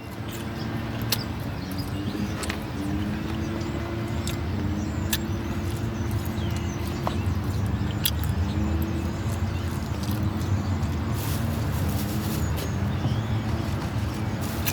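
Steady low rumble of a running vehicle, with faint wavering tones above it and a few scattered small clicks.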